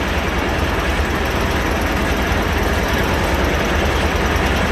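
Sawmill running steadily: a constant low engine drone under a dense, even noise from the saw.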